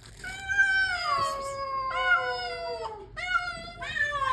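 Several street cats meowing loudly while being fed: long drawn-out meows that slide down in pitch, two of them overlapping at times, with a brief break about three seconds in before the next calls start.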